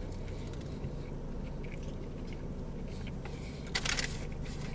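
A man biting into and chewing a Philly cheesesteak sub, with a brief rustle about four seconds in, over a steady low hum.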